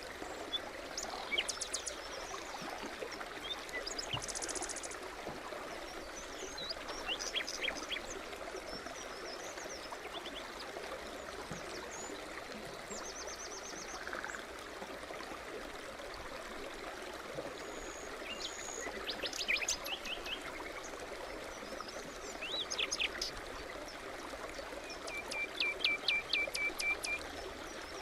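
Forest stream babbling steadily, with several small birds chirping and singing over it, including a quick run of repeated notes near the end.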